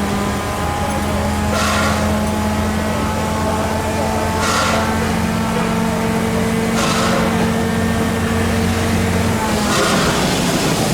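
Locomotive running steadily with a low hum and a hiss about every two and a half seconds; the hum cuts off about a second before the end.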